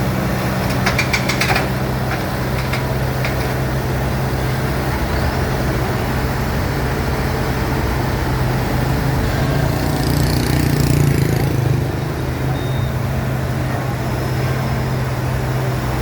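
Heavy diesel engine running steadily, working the hydraulics. The engine note swells briefly about ten seconds in, and there are a few light clicks near the start.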